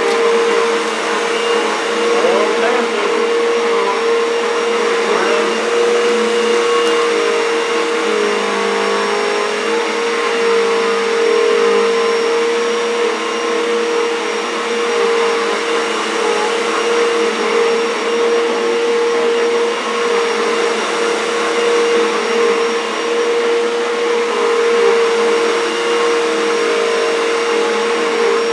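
Bissell bagless upright vacuum cleaner running steadily on the low carpet setting, a loud steady whine over a wide rushing noise. Its motorized power head is worked back and forth over carpet, sucking up kitty litter.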